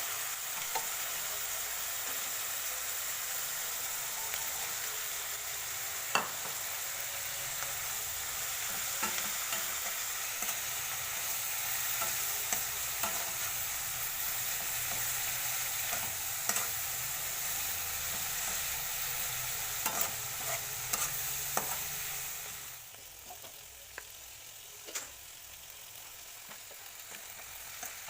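Stir-frying in a wok: oil sizzling steadily under scattered clicks and scrapes of a spatula against the pan. For the last few seconds the sizzle drops much quieter while the spatula clicks go on.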